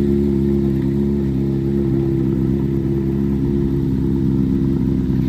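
Kawasaki ZX-10R's inline-four engine idling steadily, settling very slightly in pitch about a second in.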